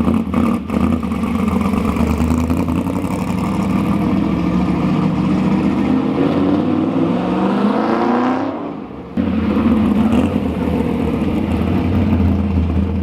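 Car engine running steadily, then rising in pitch as it accelerates for a couple of seconds, breaking off briefly and settling back to a steady run.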